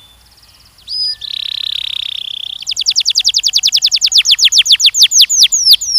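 Canary singing: after a near-quiet second, a short note, then a buzzy trill, then a fast run of falling whistled notes, about nine a second, growing louder.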